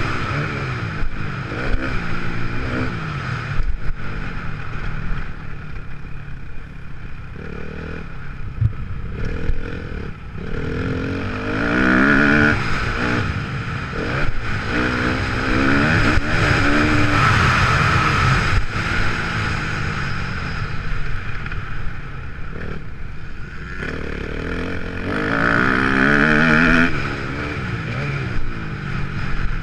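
Kawasaki KX250F single-cylinder four-stroke motocross engine revving up and down again and again, its pitch rising and falling with throttle and gear changes, with rattles over the bumps.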